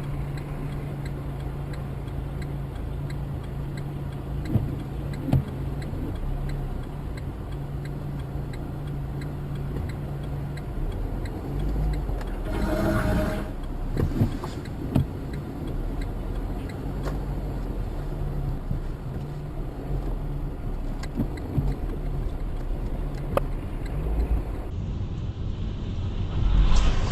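Vehicle driving noise heard from inside a car through a dash cam: a steady low engine and road drone with scattered small clicks, and a brief louder noisy burst about halfway through.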